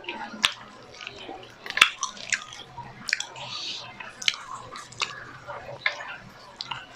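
Wet chewing and lip smacks from a person eating grilled milkfish, with irregular sharp smacking clicks about every half second to a second.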